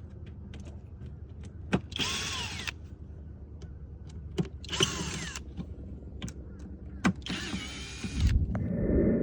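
Power drill-driver backing out the control box cover screws in three short whirring bursts, pitch rising and falling as the trigger is worked, with small clicks of handling in between. A steady low hum lies under it, and a louder rough noise comes near the end.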